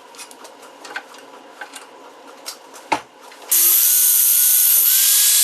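A few light clicks and taps of handling, then about three and a half seconds in a DeWalt cordless drill starts up loud, its motor whine rising slightly as it drills out the centre of an old socket.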